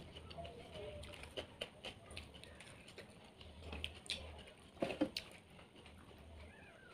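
Close-up eating sounds from fried fish eaten with the fingers: chewing and lip smacks, heard as scattered small clicks, with a louder cluster of clicks about five seconds in.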